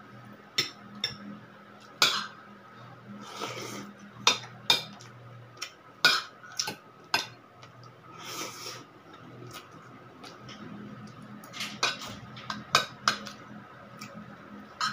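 Cutlery clinking and scraping against plates and bowls while eating, in many sharp, irregularly spaced clinks. A faint steady hum runs underneath.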